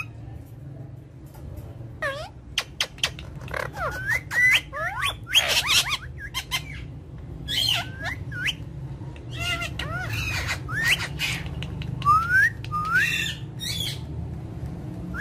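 Indian ringneck parrot calling in short, scattered bursts: whistled notes that glide up and down, mixed with harsher squawks.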